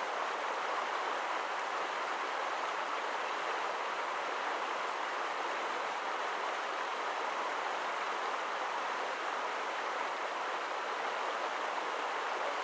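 Creek water rushing steadily in the current.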